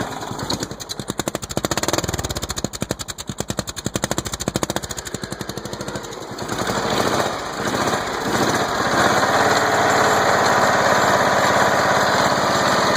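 Riding mower engine running just after its first start since being flooded with water: at first it runs unevenly with a rapid chugging, then about six seconds in it evens out into a smooth, steady run.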